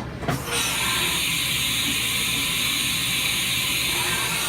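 A 2008 Haas TM-3P CNC vertical mill gives a loud, steady hiss for about four seconds, starting just after a click and cutting off near the end.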